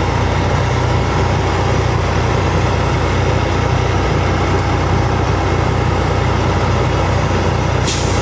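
A heavy truck's engine idling steadily, with one short click near the end.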